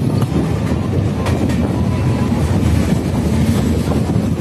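Indian Railways passenger coach running along the track, heard from its open door: a steady, loud rumble of steel wheels on the rails, with a faint click about a second in.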